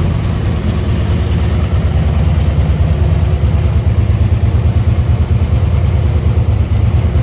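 2005 Harley-Davidson Road King Classic's air-cooled V-twin engine idling, a steady low rumble that pulses rapidly and unevenly, growing slightly louder about two seconds in.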